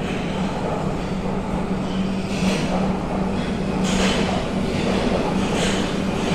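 Nagoya subway Higashiyama Line train running through the station without stopping: a steady hum under the rush of wheels on rail, with a swell of hiss about every second or so.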